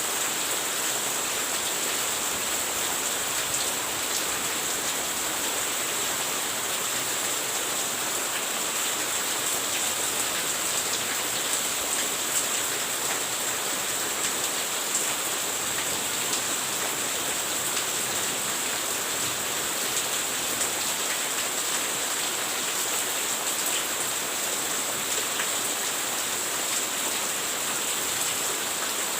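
Steady rain falling, an even hiss with fine patter that does not change throughout.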